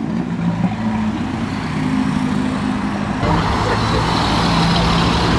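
Car engines running steadily at idle. About three seconds in, a louder rushing noise joins them.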